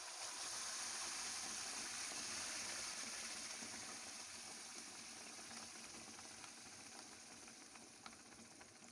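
Wet blended chana dal paste sizzling as it hits hot ghee in a kadhai. The sizzle is strongest for the first few seconds and then slowly dies down as the ghee cools under the paste.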